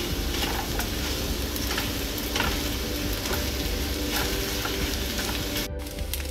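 Egg and rice frying in a hot nonstick pan, a steady sizzle with scattered scraping strokes as a utensil stirs the egg through the rice. The sound drops out for a moment near the end.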